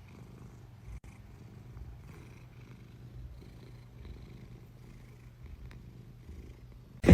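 Domestic cat purring steadily in a low, continuous rumble.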